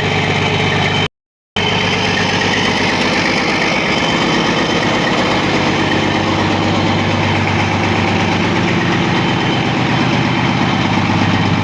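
Freshly rebuilt Caterpillar C13 inline-six diesel engine idling steadily. The sound cuts out briefly about a second in.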